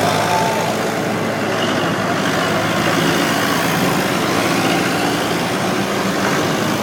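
Tractor engines running steadily as tractors drive slowly past in a procession.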